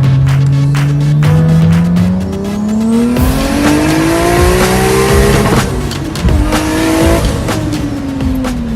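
Single-turbo Toyota 2JZ-GTE inline-six pulling hard under full acceleration, with its pitch climbing steadily through the rev range. There is a quick upshift about five and a half seconds in, it climbs again, and then revs fall away as the throttle lifts near the end. A loud rushing hiss rides over the engine for the middle of the pull.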